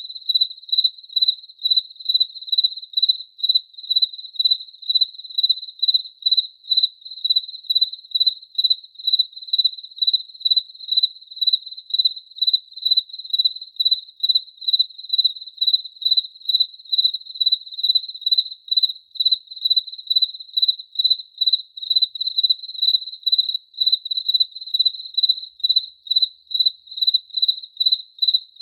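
A cricket chirping at one high pitch in an even, unbroken rhythm of about three chirps a second.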